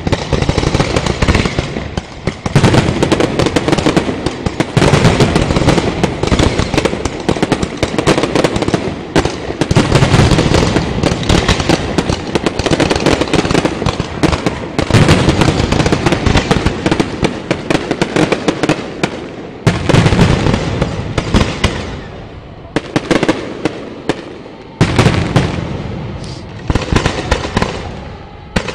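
Aerial fireworks display: many shell bursts in quick succession, nearly without pause, with a couple of short lulls past the middle.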